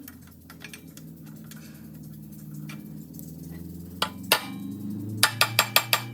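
Sharp metal tool knocks while fitting mini-bike foot pegs: two about four seconds in, then a quick run of about six near the end. Steady background music runs underneath.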